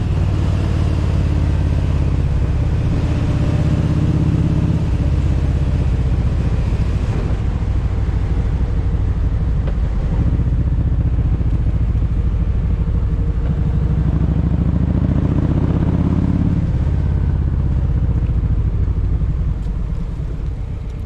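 Kawasaki Vulcan 1700 Voyager's V-twin engine running under way, a deep steady drone whose pitch shifts a couple of times with changes in speed, fading out near the end.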